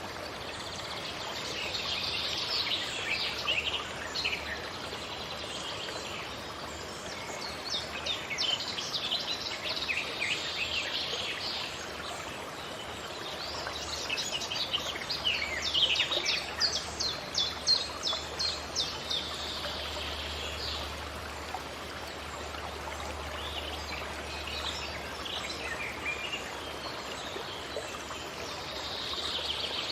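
Forest birds calling and singing in bouts of high chirps, with a fast run of short, sharp notes about midway, over a steady background hiss.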